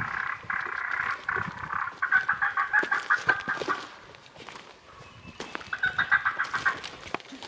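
Turkey call worked by a hunter, making rapid hen yelps and cutting in two runs, with a pause of about a second and a half in the middle.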